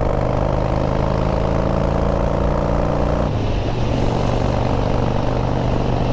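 Harley-Davidson V-twin motorcycle engine running under way as the bike is ridden. Its note breaks briefly about three seconds in, then steadies again.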